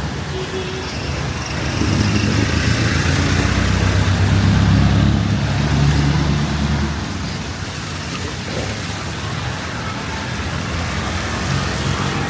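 A motor vehicle's engine passing close by, rumbling louder from about two seconds in and fading after about seven, over steady street traffic noise.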